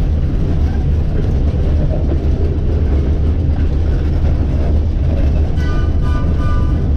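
Vintage electric streetcar running along its track, heard from aboard: a steady low rumble with running noise. A brief high-pitched squeal comes in about five and a half seconds in and lasts about a second.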